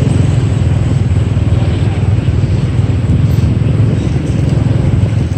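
Steady low rumble of a motorbike ride in city traffic: the bike's engine and road noise.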